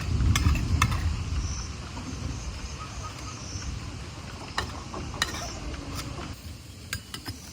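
Kitchen pot and utensils being handled while making hibiscus tea: a few sharp clinks and knocks over a low rumble in the first second, then scattered light clicks.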